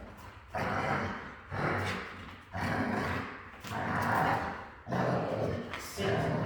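Young golden retriever growling in about six short bursts, roughly one a second.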